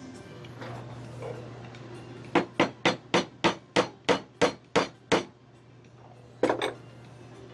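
Hammer blows, about ten quick strikes at roughly three a second, followed a second later by a pair of strikes.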